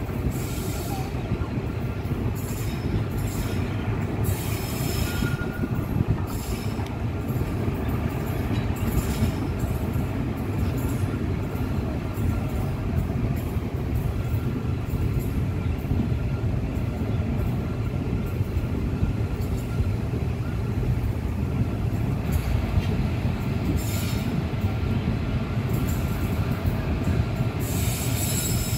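A train running past on the rails: a steady rumble of wheels and cars, with high-pitched wheel squeal and screech flaring up several times.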